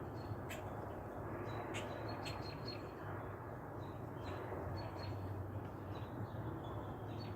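Small birds chirping, with short high chirps coming in scattered bunches, over a steady low background noise.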